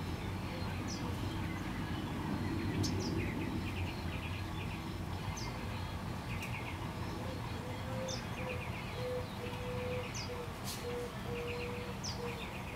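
Small birds chirping in the background: short high chirps and quick rattling trills every second or two, over a steady low rumble.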